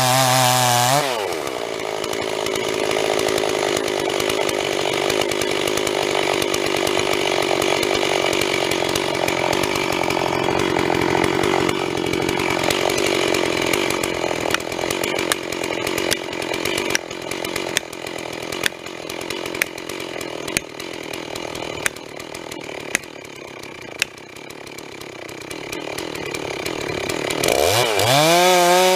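Stihl MS 250 two-stroke chainsaw cutting into a notched dead elm. It revs high at first, then drops to a lower, steady note under load as it works through the cut, with scattered sharp clicks in the second half. Near the end it comes free and revs back up to a high whine.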